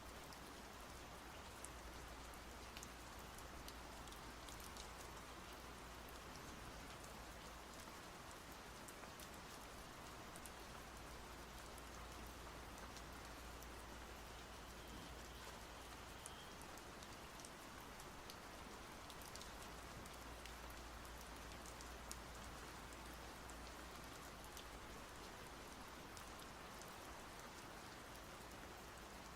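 Steady rain falling: a faint, even hiss with scattered little drop ticks, over a low steady hum.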